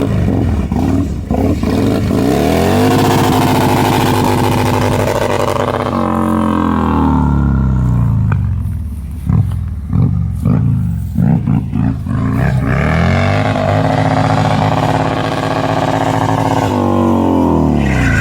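Harley-Davidson motorcycle engine revved up to its rev limiter and held there, stuttering against the limiter, twice over; in between the revs fall away and it is blipped several times before climbing again.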